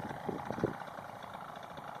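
Paramotor engine running with a steady buzz at low throttle. A low rumble of wind on the microphone drops away under a second in.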